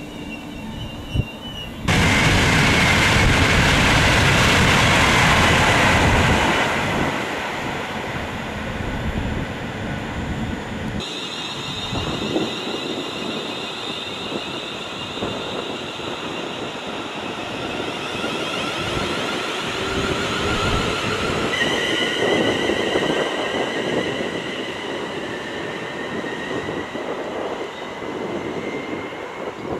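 Train passing at speed: a loud rushing noise starts suddenly about two seconds in and eases off after about six seconds. From about eleven seconds a quieter train sound follows with high whining tones, which grow stronger near the end.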